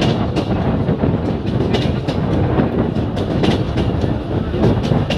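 Bangladesh Railway train running along the track: a steady rumble and rattle, with the wheels clicking over rail joints at uneven intervals.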